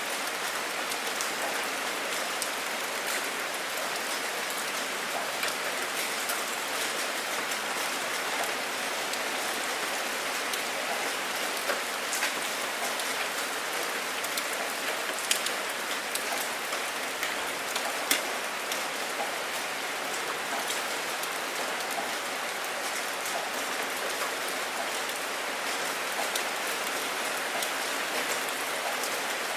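Steady rain falling, with many individual drops ticking on a surface and a few louder drop hits in the middle stretch.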